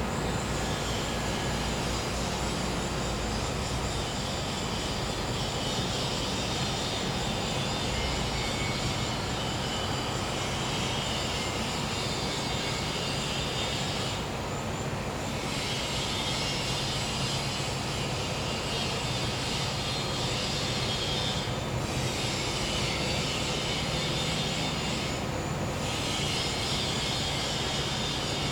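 Gas-powered generator running with a steady hum. Above it, a high insect chorus of cicadas and crickets stops briefly about halfway through and twice more near the end.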